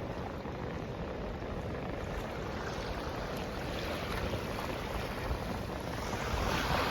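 Steady rushing noise of water and wind, swelling slightly near the end.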